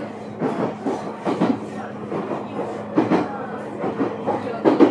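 Ueda Electric Railway electric train running, heard from inside the car: a steady low hum under irregular knocks and rumbles from the wheels and running gear.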